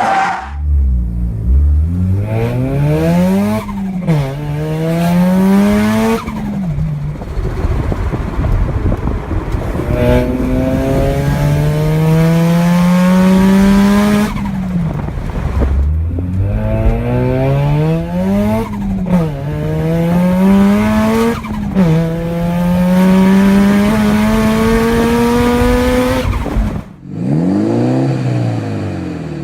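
Turbocharged car engine accelerating hard through the gears: the revs climb steadily, then drop back sharply at each upshift, over two long pulls. Near the end a different engine revs up and down briefly.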